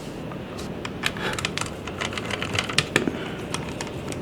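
Irregular small clicks and taps of drone parts being handled and fitted together during reassembly, with a louder knock about three seconds in.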